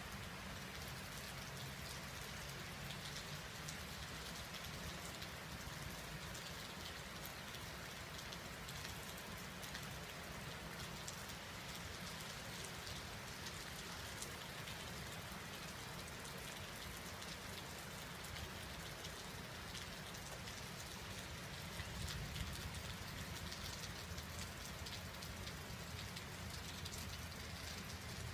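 Steady rain falling during a spring thunderstorm: an even hiss with many separate drop ticks. A low rumble rises slightly about three-quarters of the way through.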